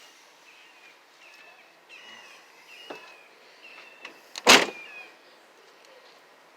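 A few short high squeaks, a sharp knock about three seconds in, and a loud clank about four and a half seconds in.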